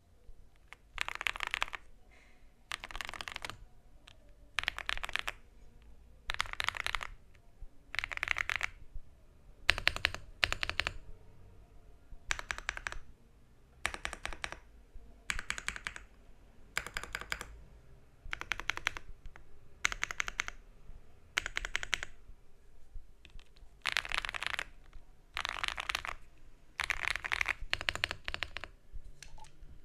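Mechanical keyboard being typed on in short fast bursts of keystrokes, about one burst every two seconds with brief pauses between.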